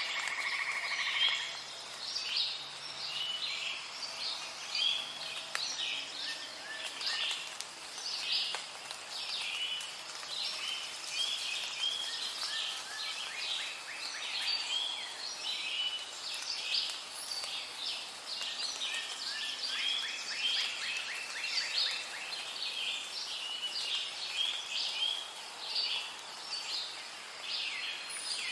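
Rainforest ambience: a dense chorus of many birds chirping and trilling without a break.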